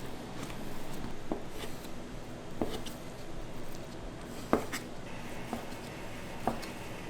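A knife knocking on a cutting board as pork is sliced: irregular sharp knocks about once a second, the loudest about halfway through, over a steady background hum.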